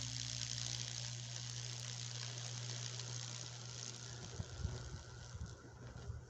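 Faint, steady sizzling hiss of wood burning under a high-voltage Lichtenberg-figure burner, over a low electrical hum that fades about four seconds in, followed by a few soft knocks.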